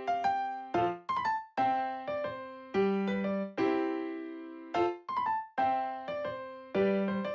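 Background music: a light piano or electric-piano tune, each note struck and left to fade, in a steady repeating phrase.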